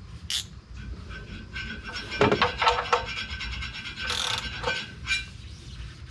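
Hand tools clinking and scraping on metal during work on the truck, with scattered sharp clicks and a short hiss about four seconds in.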